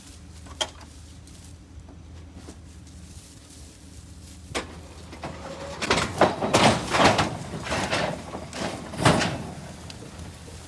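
Clanking and rumbling as a truck is brought down ramps off a trailer: a single knock, then a dense run of loud knocks and bangs over about three seconds, the loudest near the end, over a steady low hum.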